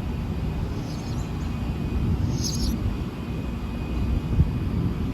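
Thunder rumbling low and continuously in a severe thunderstorm, swelling about four seconds in. Short high buzzes recur every couple of seconds over it.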